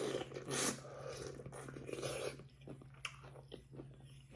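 Close-up eating sounds: biting and chewing with wet mouth clicks and small crackles, loudest in the first second.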